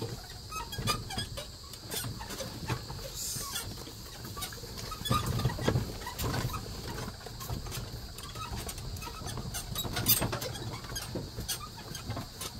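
Carabao-drawn cart jolting along a rough track: irregular knocks and rattles, a few louder ones about five and ten seconds in, over a steady high-pitched buzz.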